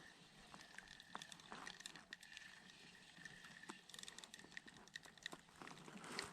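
Near silence: a faint steady high tone with scattered small ticks, and a brief rustle near the end.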